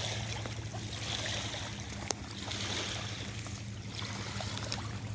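Water washing in slow swells of hiss over a steady low hum, with a single sharp tap about two seconds in.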